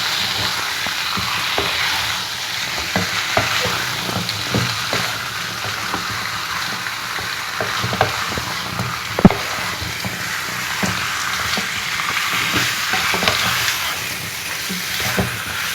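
Chicken pieces frying in hot oil and spiced masala, sizzling steadily while being stirred, with frequent spoon scrapes and knocks against the pan and one sharper knock about nine seconds in.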